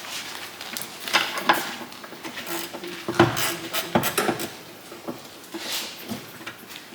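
Spanner and metal parts clinking and knocking irregularly, with the sharpest knocks about a second and a half, three and four seconds in.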